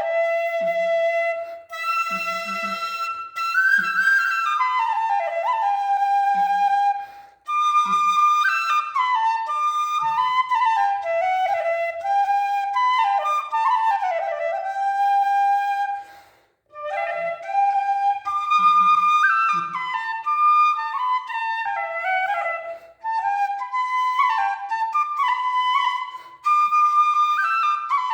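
Bansuri bamboo flute playing a solo song melody in flowing phrases, with short breath breaks about seven and sixteen seconds in.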